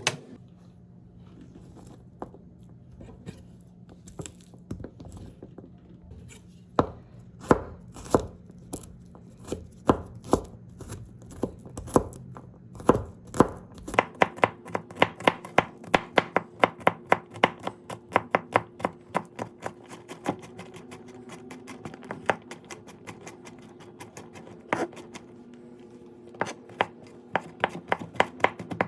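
Kitchen knife chopping food on a cutting board: scattered single cuts at first, then about halfway a fast, even run of chopping at several strokes a second.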